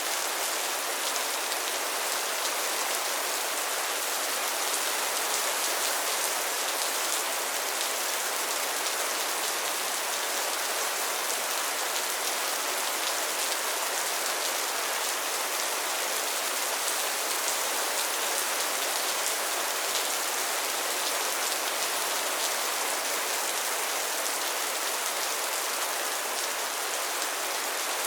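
Steady rain falling on pond water and lily pads: an even hiss flecked with many small, quick drop impacts, unchanging throughout.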